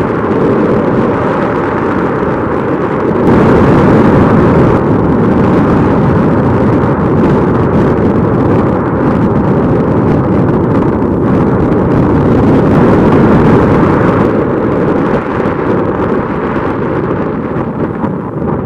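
Strong wind buffeting the microphone: a loud, rumbling rush that swells about three seconds in and eases slightly near the end.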